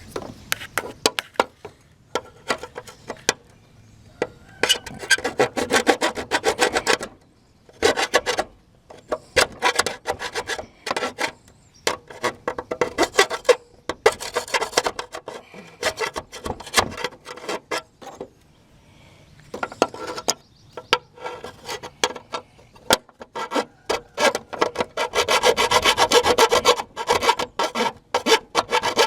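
Hand file scraping back and forth over the edges of freshly drilled bolt holes in metal, smoothing off the burrs. It comes in quick runs of strokes broken by short pauses.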